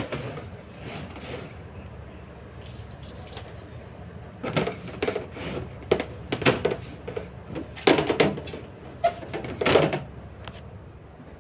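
A run of sharp knocks and clatters, about a second apart between roughly four and ten seconds in, as fridge drawers, shelves and containers are handled and set down during cleaning.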